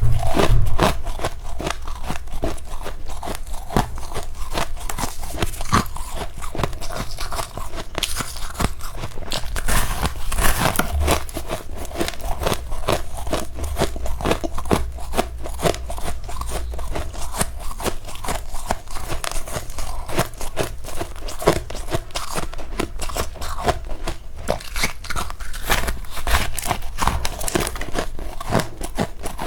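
Close-miked crunching of powdery freezer frost being bitten and chewed, a dense run of quick, irregular crunches.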